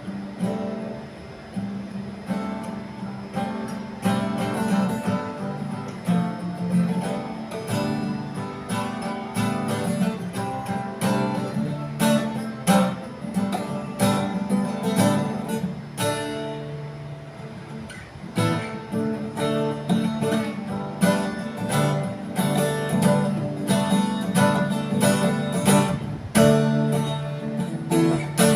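Acoustic guitar playing an instrumental passage of a song, strummed and picked.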